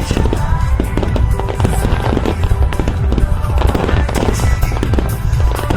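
Rapid volleys of aerial firework shells bursting, with heavy low booms and crackling, many bursts a second, over the show's accompanying music.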